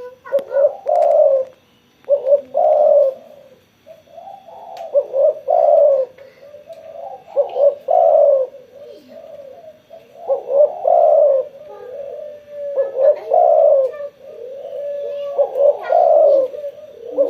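Spotted dove (tekukur) cooing vigorously: repeated low cooing phrases, each of several notes, one every two to three seconds.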